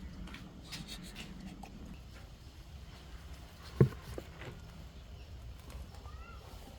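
Faint scattered light taps and knocks, with one short, heavy, dull thump about halfway through.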